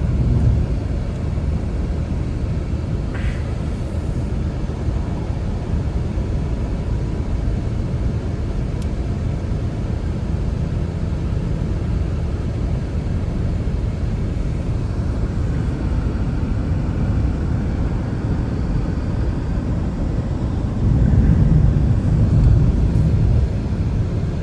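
Blizzard wind buffeting the microphone: a steady low rumble that starts suddenly and gusts louder near the end.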